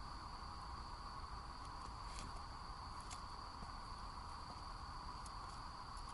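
Insects trilling steadily in a continuous chorus, with a few faint sharp crackles from the wood campfire.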